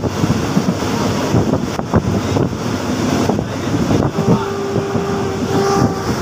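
Wind rushing past the open window of a moving train, with the rumble of the carriage and irregular knocks and rattles from the wheels on the rails. About four seconds in, a steady pitched tone sounds for about two seconds.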